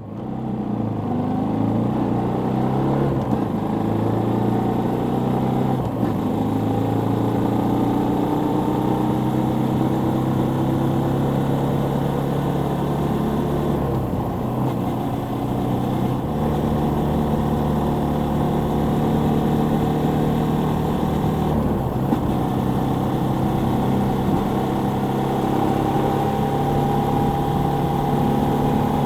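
Suzuki Volty 250's single-cylinder engine running under way, its pitch rising slowly over several seconds and then shifting twice around the middle. The sound fades in at the start.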